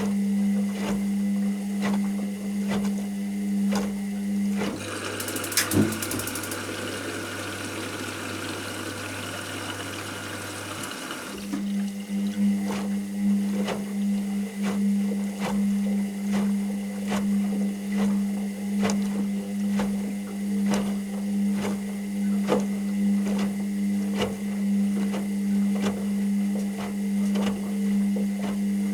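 Washing machine running through its wash cycle: a steady motor hum with regular soft knocks as the drum turns. About five seconds in the drum motor stops and a quieter, different hum with a hiss runs for about six seconds, then the motor hum and knocking start again.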